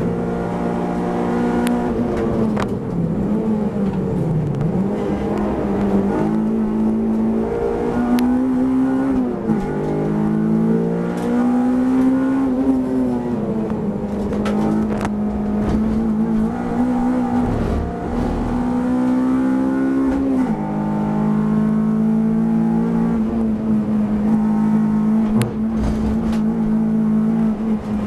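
Honda Civic race car's engine heard from inside the cabin at racing speed, climbing in pitch under acceleration and dropping sharply several times under braking and downshifts.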